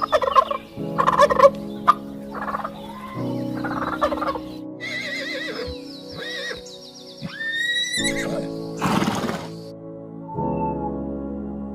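Domestic turkeys gobbling in several short, rattling bursts over steady ambient background music.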